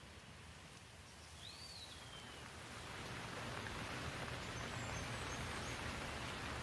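Rain falling, swelling steadily louder from about three seconds in, with a low rumble building underneath. A bird chirps once about two seconds in.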